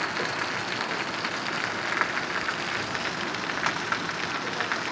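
Heavy rain falling steadily, a dense hiss with many small drop impacts.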